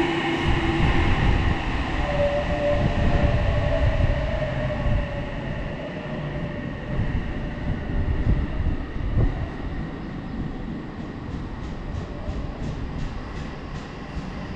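Odakyu Line electric commuter train running on the rails: a low rumble of wheels with a steady motor whine that fades after the first few seconds. A quick, regular faint ticking comes in near the end.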